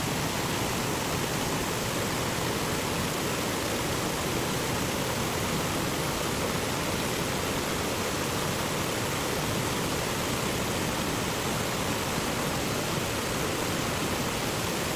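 Steady rush of a fast-flowing mountain stream over rocks, an even unbroken roar of water.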